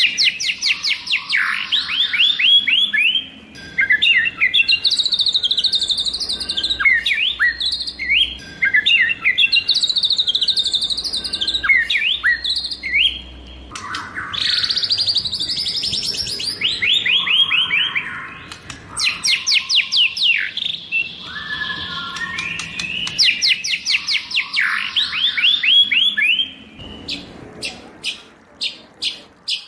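White-rumped shama singing a long, varied song of fast whistled trills and rapidly repeated notes, phrase after phrase. Near the end it gives a run of sharp ticking notes.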